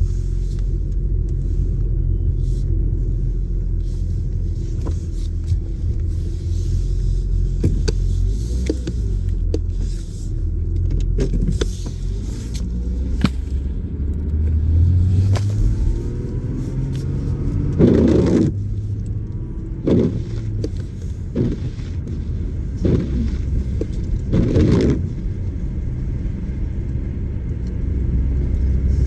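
BMW 440 Gran Coupe's turbocharged straight-six engine running while the accelerator is pumped. A steady low drone rises in pitch about halfway through, followed by several short, sharp revs.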